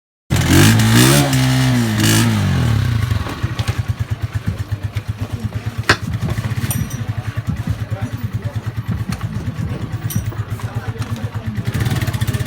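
A newly assembled motorcycle's engine, revved up and down for the first few seconds, then settling into a steady idle with an even, fast pulsing. A single sharp click about six seconds in.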